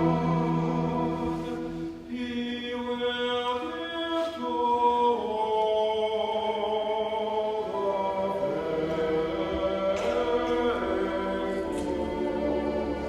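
A choir singing a slow, sustained passage in several parts, the chords changing every second or two.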